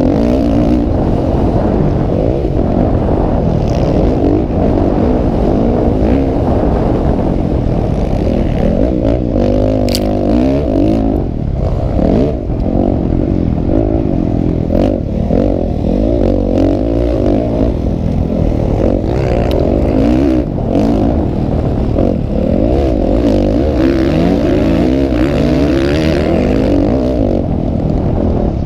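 Several motocross motorcycle engines revving, their pitches rising and falling over one another.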